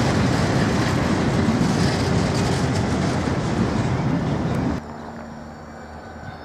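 Empty Ealos freight wagons rolling over the rails with a steady, loud rolling noise. About five seconds in the sound cuts off abruptly to a much quieter steady hum.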